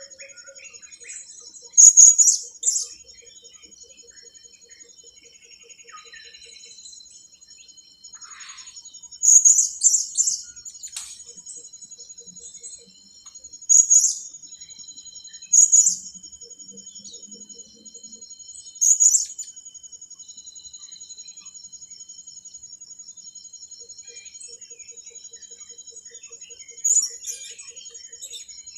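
Blue-crowned hanging parrots (serindit) giving sharp, very high-pitched calls in about six short bouts, the loudest about two seconds in and around ten seconds in. A steady, high insect-like trill drones underneath throughout.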